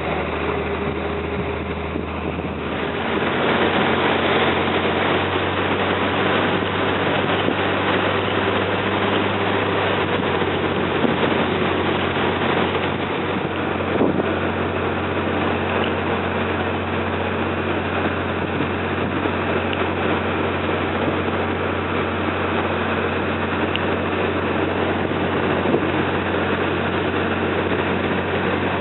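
Slow riverboat's engine running steadily with a low hum, under a broad rushing noise of water and wind that swells about three seconds in and then holds steady.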